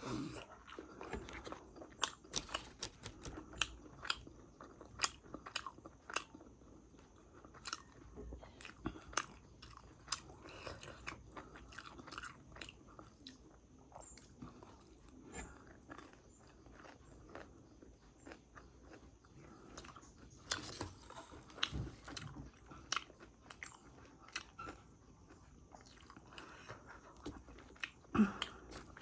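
Someone biting and chewing crisp fried momos close to the microphone, with irregular crunches and mouth clicks.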